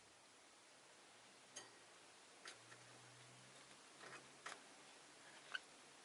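Near silence broken by about six faint, short clicks and tiny chirps from rosy-faced lovebirds in their cage.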